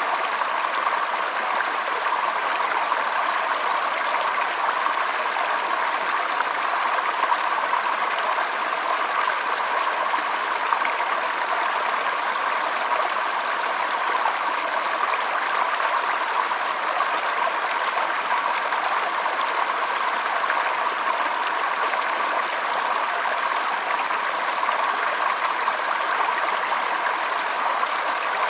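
Shallow stream trickling and flowing, a steady, even rush of running water.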